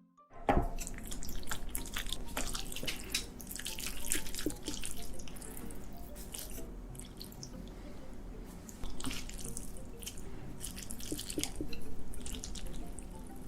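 Wet, sticky clicks and small squelches: noodles being stirred and mixed in a bowl with utensils before eating.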